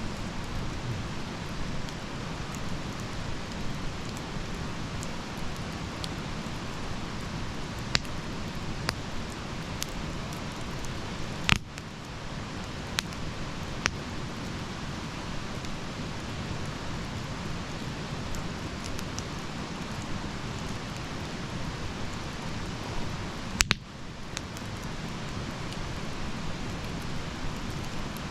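Campfire burning: a steady hiss with scattered sharp crackles and pops. The two loudest pops come about twelve seconds in and near the end.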